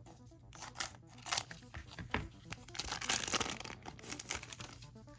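Foil trading-card booster pack being torn open, its wrapper crinkling in scattered rustles and sharp crackles that are busiest around three seconds in.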